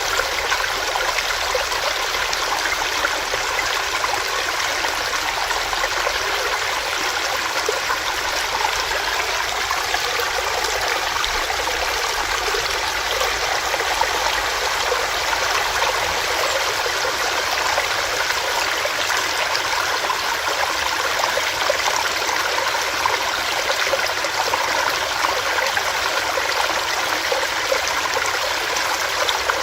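Small rocky stream with water running and splashing over stones, a steady, even rush that does not change.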